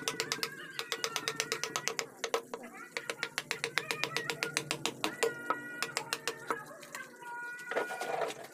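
A carving chisel tapped rapidly with a mallet into wood, about six to eight sharp taps a second, pausing briefly twice. Pitched animal calls run in the background.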